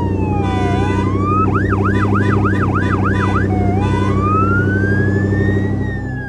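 Police car siren: a slow falling wail, then a quick run of about six yelps, then a long rising wail that turns down again near the end, over a steady low hum.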